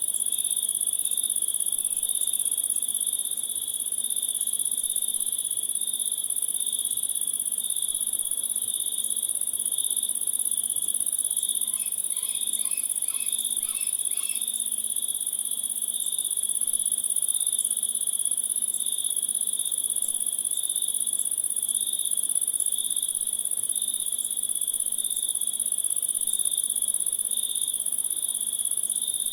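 Chorus of crickets trilling: a steady high-pitched trill, with a second, pulsing trill lower down. About halfway through comes a brief run of about six quick chirps.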